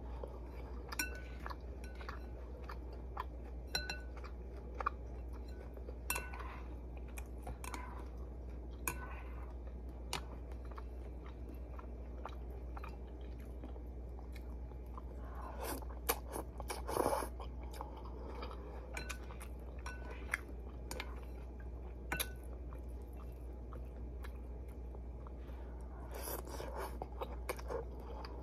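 Close-up chewing of a ramen meal with meat, in many short, irregular wet clicks, heaviest about sixteen to seventeen seconds in and again near the end. A steady low hum runs underneath.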